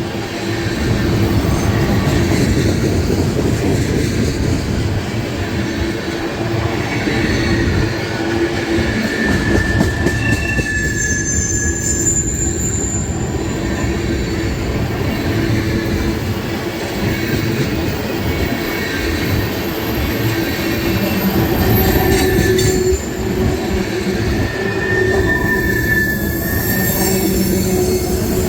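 Loaded ethanol tank cars of a long freight train rolling past, a steady rumble of steel wheels on rail. High wheel squeals come and go in it.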